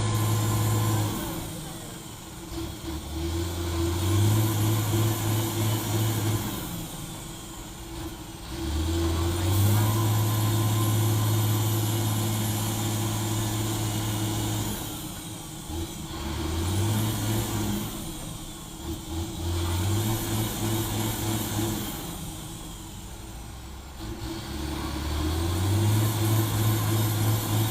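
Truck engine labouring under load, its revs rising and falling several times, with a hiss over the top.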